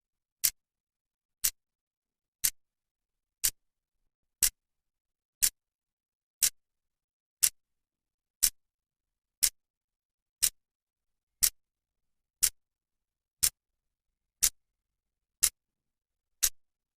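Clock second hand ticking steadily, one sharp tick each second.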